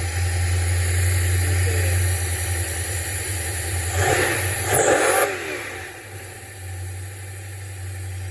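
Car engine running after a cold start, revved twice about four and five seconds in, then settling back to a quieter, lower idle.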